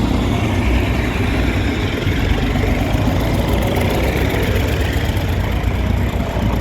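Tractor engine running steadily at low revs, close by.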